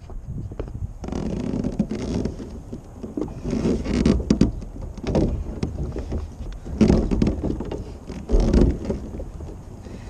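Wind buffeting the microphone, with irregular knocks, bumps and rustles of handling aboard a kayak.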